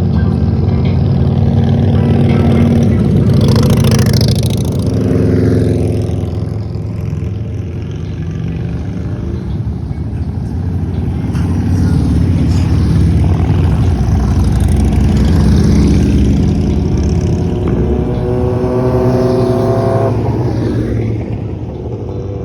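Motorcycle engines running nearby in street traffic, with an engine revving up in pitch near the end.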